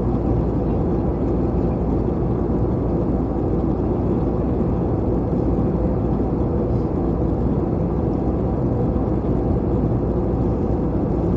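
Steady low rumble of an Airbus A321 heard from inside the cabin on approach: engine drone and airflow noise with no change in level.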